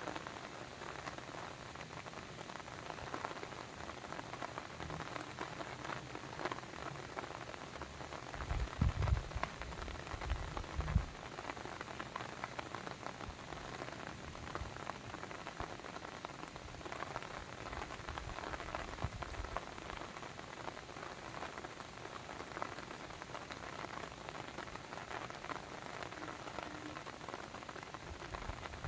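Steady rain falling, an even hiss dotted with individual drop ticks. A few short low thumps come about a third of the way through.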